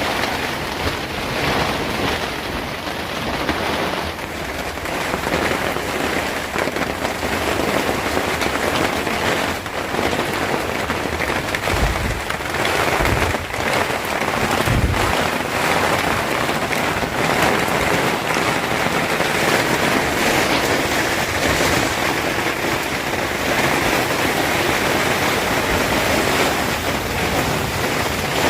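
Steady, heavy rain falling, with a few short low thuds about halfway through.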